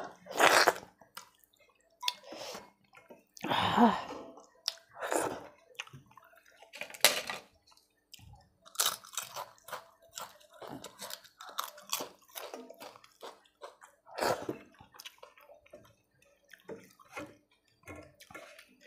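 Close-miked eating sounds: irregular chewing and crunching of crisp fried papad, with wet, sticky squishes of rice and sour dal being mixed by hand in a steel plate.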